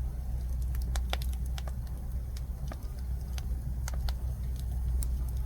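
Jujube-wood fire burning, its logs crackling in irregular sharp snaps over a steady low rumble.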